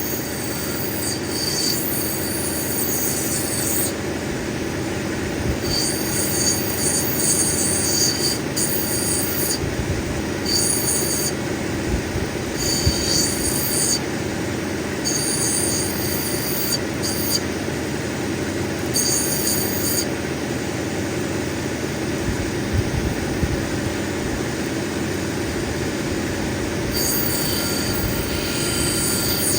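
Cabbing machine running steadily while an opal nobby is pressed to its grinding wheel in repeated passes of a second or two, each giving a high-pitched grinding squeal, as the dark black-opal backing is ground down.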